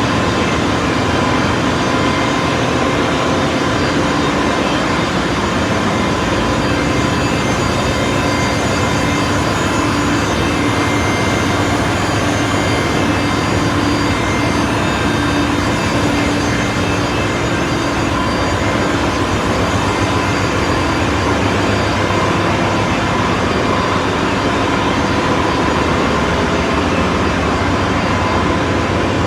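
Ship's engine-room machinery running: a loud, steady mechanical din with a constant hum and whine.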